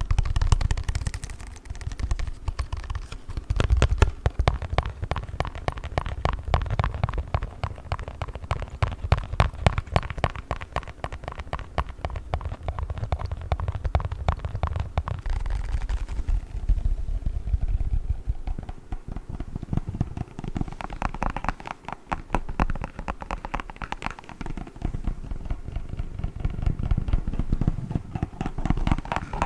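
Fingertips tapping, scratching and crinkling a plastic play foam package, a dense, fast run of clicks and crackles with a low rumble under it.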